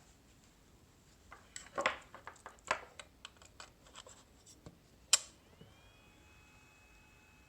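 Faint steady noise of the Minnowboard Turbot's small cooling fan. From about a second and a half in to just past five seconds it is broken by a run of irregular clicks and scratches, the sharpest near the end. Just after, a faint high whine sets in, rising briefly and then holding steady.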